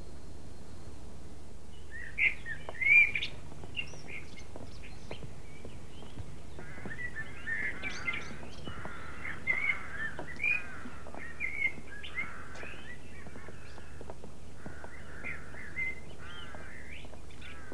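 Birdsong: several birds chirping and warbling in short, overlapping bursts, starting about two seconds in.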